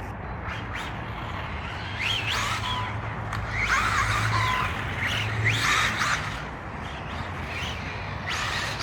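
Electric radio-controlled cars running, their motors whining up and down in pitch in several short throttle bursts.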